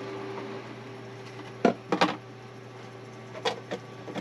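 Several sharp clinks and knocks of a cooking pot and utensils, in two small groups, one around the middle and one near the end, over a steady low hum.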